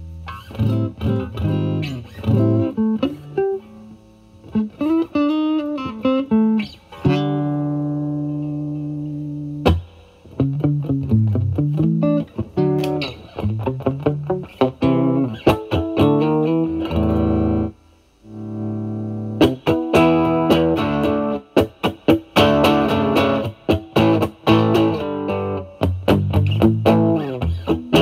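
Electric guitar, a Stratocaster through a Vertex Steel String Clean Drive overdrive pedal set at gain 3 into the clean channel of a Marshall Valvestate amp, playing blues lead lines with string bends and held notes. A brief gap about two-thirds through, then quicker picked phrases.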